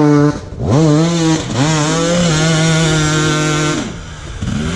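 Dirt bike engine held at high revs, twice dropping off briefly and revving back up, then easing off near the end.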